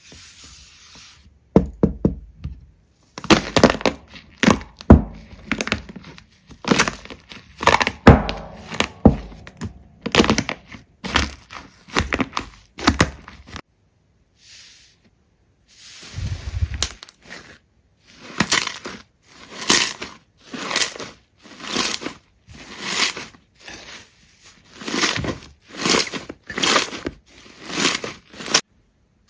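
Hands squishing and poking a large slime, giving sharp crackling pops and clicks. From about halfway through, the presses come steadily, about one a second.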